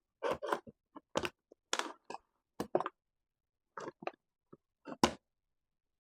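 Small hard objects clicking and clattering as they are handled: about a dozen short, sharp knocks in uneven clusters, the loudest about five seconds in.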